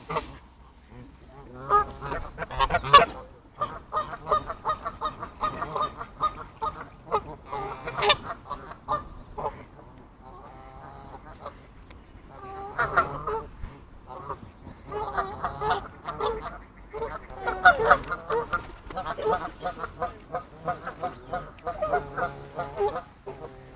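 A crowd of waterfowl calling, many short repeated calls overlapping one another, with a brief lull about halfway through.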